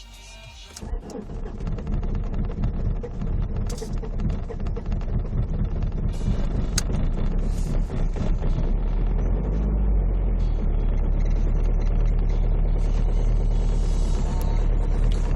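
Volkswagen Passat B5+ engine starting at −27 °C about a second in. It runs unevenly for several seconds after the cold start, then settles into a steady idle.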